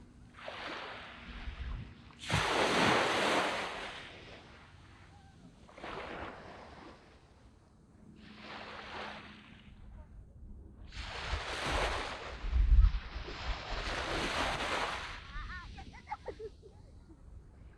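Small waves breaking and washing up a sandy beach in repeated surges every two to three seconds, the loudest about two seconds in.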